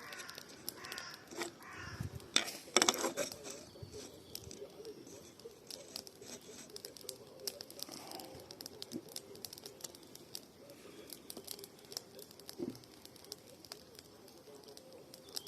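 Wood campfire crackling, with scattered sharp pops and a couple of louder snaps about two and a half seconds in. A bird chirps a few times near the start.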